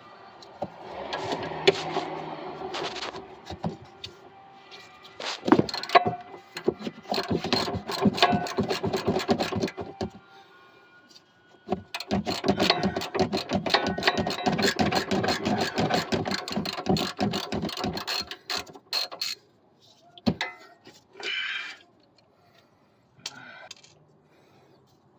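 Hand ratchet clicking rapidly as it spins off a 17 mm sway bar link nut, in two long runs of quick clicks with a short pause between, then a few short separate noises near the end.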